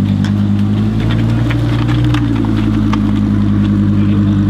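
A car engine idling steadily, its tone shifting slightly about two seconds in.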